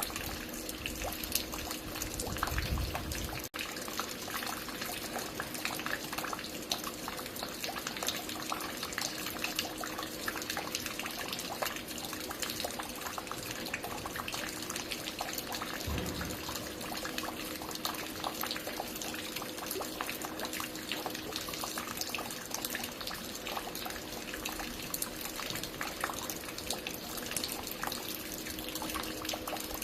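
Water falling and dripping steadily, many small drops splattering in an irregular patter over a continuous watery hiss, with a faint steady hum underneath.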